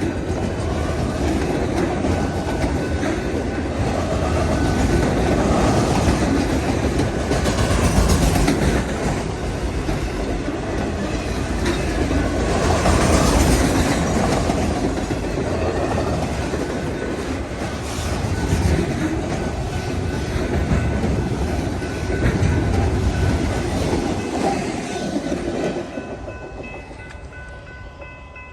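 Freight cars of a mixed train rolling past at speed, with steady rumble and wheel clickety-clack over the rail joints. Near the end the train noise falls away, leaving a few steady high ringing tones.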